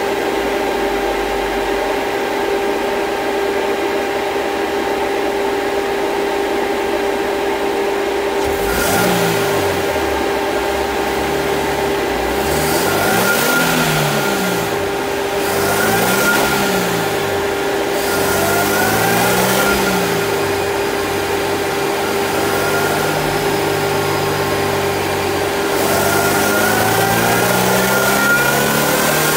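Supercharged Subaru BRZ flat-four engine idling, then revved up and let fall four times. It holds a steadier higher rpm and begins climbing again near the end, with a supercharger whine rising and falling with the revs.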